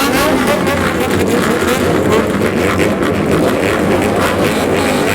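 Several customised Japanese motorcycles with straight-pipe exhausts revving together, their engine notes rising and falling over one another.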